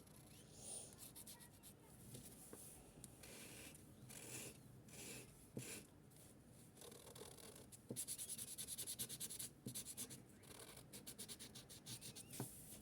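Highlighter's broad felt tip rubbing across paper in soft colouring strokes, quiet at first, then a run of quick back-and-forth scribbling strokes about two-thirds of the way through.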